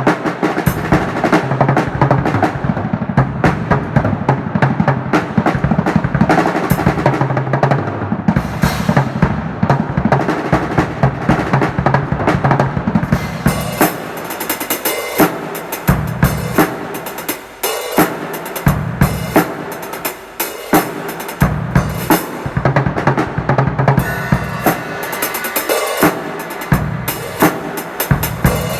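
A drum kit, which the title calls bad drums, played in a fast groove with fills and rolls, bass drum and snare to the fore. The cymbals get busier about halfway through.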